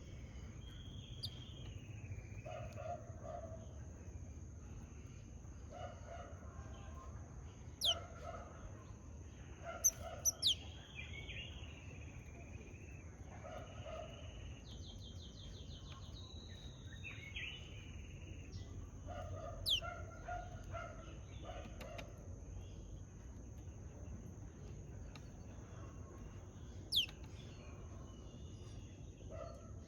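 Japanese tit calling: sharp, high notes sweeping downward, repeated every few seconds, with a brief rapid trill about halfway through. Softer, lower chattering bird calls go on underneath.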